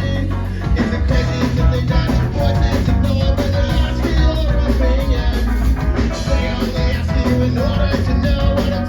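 Live punk rock band playing a song at full volume: electric guitar, bass and drum kit, dense and continuous.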